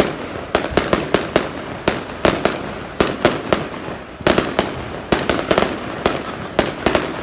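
Fireworks going off: a rapid, irregular string of sharp bangs, several a second, coming in clusters.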